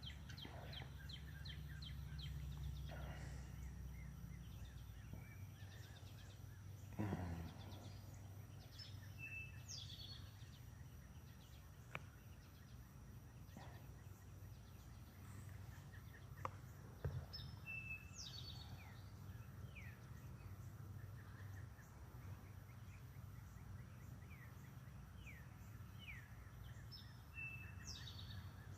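Backyard songbirds calling and singing faintly over a low steady background hum, one bird repeating the same short phrase, a held note and a quick upward sweep, about every nine seconds. A few sharp clicks cut in, the loudest about seven seconds in.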